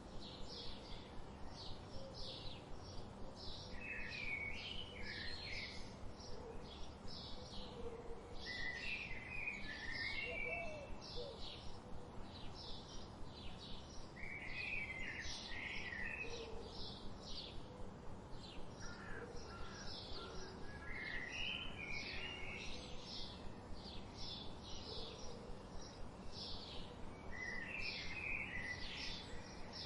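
Wild birds singing: a fast, unbroken run of short high chirps, with a lower warbling phrase every five or six seconds, over a steady background hiss.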